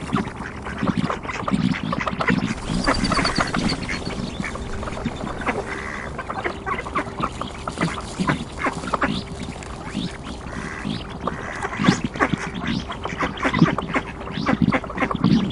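A flock of ducks quacking, with many short calls overlapping continuously.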